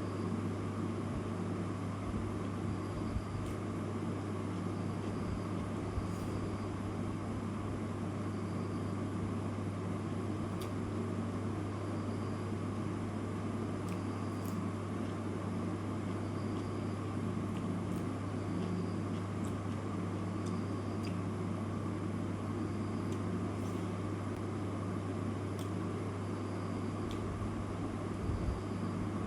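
A steady low hum over even noise, with faint high chirps repeating about every second and a half and a few faint clicks.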